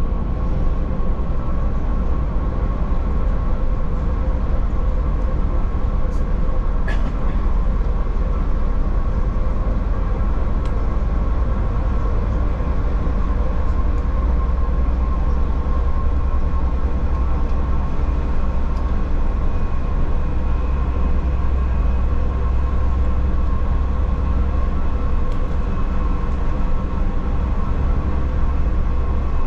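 Passenger train running, a steady low rumble with a constant hum and a couple of faint clicks about six seconds in.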